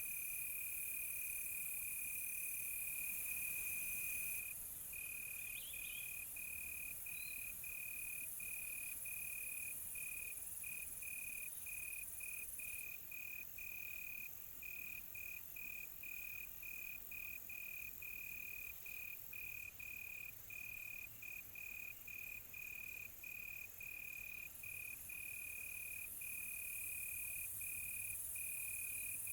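Crickets chirping in a night ambience: a continuous trill for the first few seconds, then a steady pulsing chirp about twice a second, over a constant high-pitched insect hiss.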